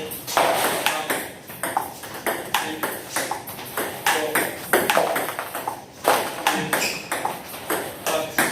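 Table tennis balls being struck by rackets and bouncing on the table: rapid, irregular clicks, several a second.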